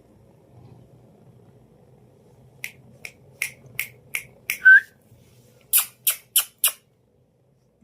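A pet parrot making a run of quick kissing smacks, about ten in all, with one short rising chirp in the middle that is the loudest sound. The last four smacks come close together.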